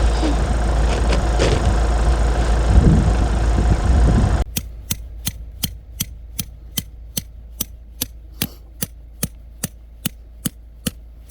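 Wind buffeting the microphone in a loud, gusty rush; about four and a half seconds in it cuts off abruptly, giving way to a quiet background with a steady, even ticking about two and a half times a second.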